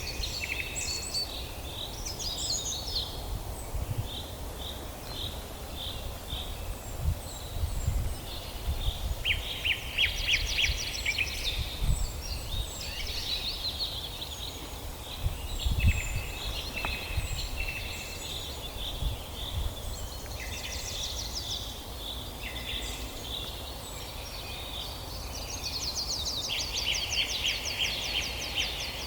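Several songbirds singing and calling at once, with bouts of fast trills. Under them runs a steady low rumble, with a few low thumps.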